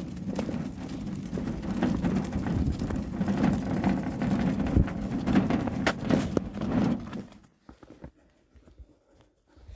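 A vehicle engine running with loose clattering and knocking over it, cutting off suddenly about seven seconds in.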